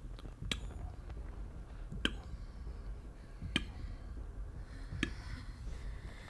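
Sound effects from the anime episode: four sharp ticks, evenly spaced about a second and a half apart, over a steady low rumble.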